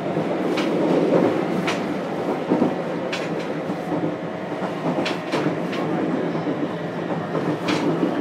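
Interior running sound of a JR Kyushu 303 series electric train, heard from inside a motor car: a steady rumble of wheels on rail, with sharp clicks as the wheels cross rail joints, several of them in quick pairs.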